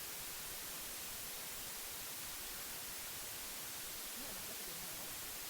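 Steady, bright white-noise hiss masking subliminal affirmations: a faint spoken voice is buried beneath it.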